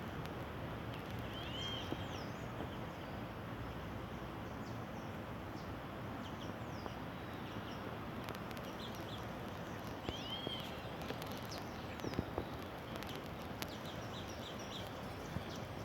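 Several birds chirping, with short whistled notes scattered throughout, some arching and some falling in pitch, over a steady background noise.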